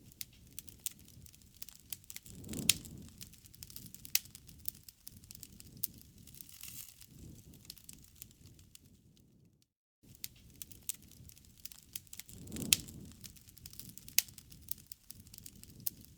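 Campfire crackling: scattered sharp pops and snaps over a low rumble of burning wood, the loudest pop a little under three seconds in. After a brief dropout about ten seconds in, the same stretch of crackling repeats, a looped fire recording.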